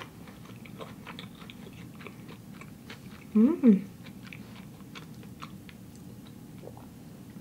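A person chewing a mouthful of sushi close to the microphone: soft wet clicks and smacks of the mouth. About three and a half seconds in comes a short two-note hummed "mm" with the mouth closed.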